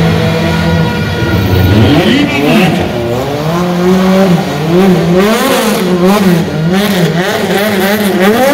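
Car engine revving hard on a stunt run. Its pitch rises and falls once about two seconds in, then swings up and down in quick repeated waves, a little under twice a second.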